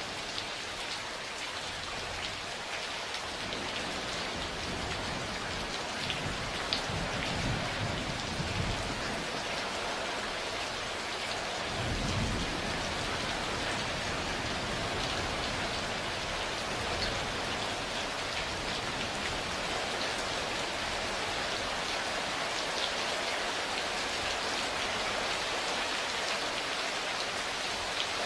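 Steady rain falling, with a low roll of thunder about seven seconds in and a deeper rumble about twelve seconds in.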